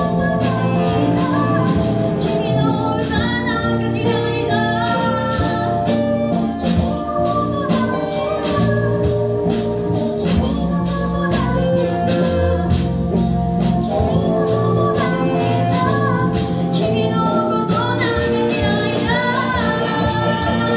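Live rock band playing a song: a female singer over a steady drum beat, bass and sustained organ-like keyboard chords.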